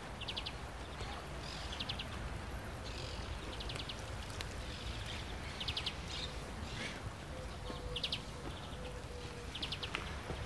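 A small bird calling, short rapid high trills repeated about once a second, over a steady low background noise.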